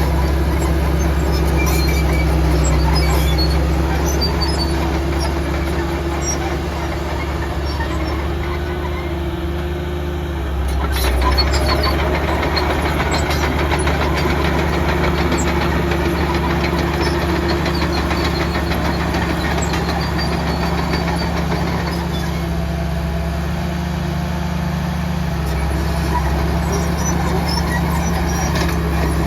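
Heavy diesel earthmoving machinery, an excavator or dump truck, running steadily with a deep engine hum. A brief knock and a rise in level about eleven seconds in.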